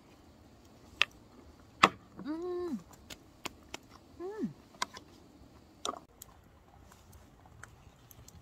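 Irregular sharp clicks and taps of utensils against dishes while food is being prepared, with two short hummed voice sounds, one about two seconds in and one about four seconds in.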